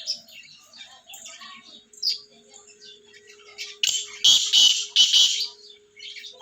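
Cage birds chirping with many small high notes, then a loud harsh call of about four rapid notes about four seconds in.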